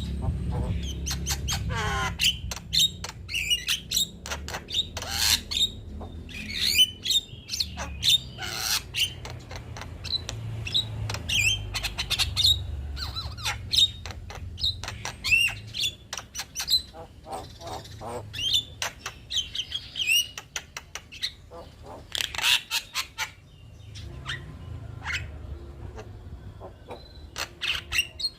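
Male Javan myna chattering: fast runs of clicks and rattles mixed with short whistled notes and squawks, in irregular bursts.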